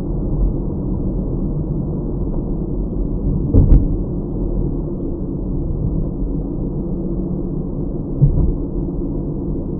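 Steady low hum of a car's road and engine noise as picked up by a dash cam inside the cabin, with a thump about three and a half seconds in and a smaller one near the end.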